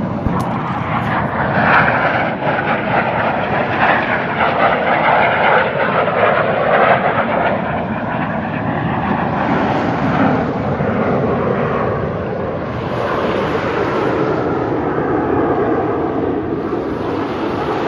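U.S. Navy Blue Angels F/A-18 Hornet jets flying past with a loud jet roar. The roar is loudest from about two to seven seconds in, then eases slightly but carries on.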